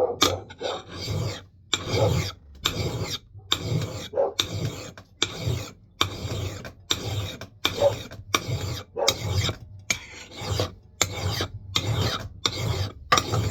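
Hand file rasping across the steel bit of a Mann Edge Tool Company knot clipper axe in steady back-and-forth strokes, about two a second.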